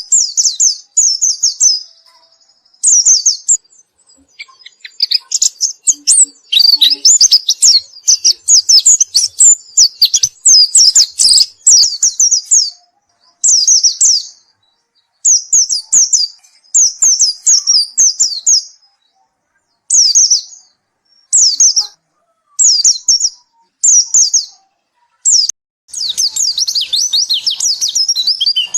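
White-eye (pleci) singing loudly and vigorously: short, high-pitched phrases of quick sliding notes, repeated about once a second with brief pauses, running together into longer unbroken warbling for several seconds in the middle and again near the end.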